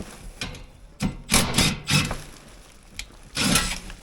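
Cordless drill/driver running in two short bursts on a screw in an HVAC unit's panel: once about a second in for about a second, and again briefly near the end.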